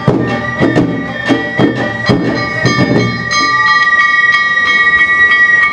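Awa Odori festival music: bamboo flutes holding high notes over a steady beat of drums and gong strikes. About three seconds in, the drumming drops away and the flutes hold one long, loud note.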